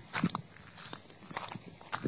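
Footsteps of someone walking: a run of uneven scuffs and clicks, several a second.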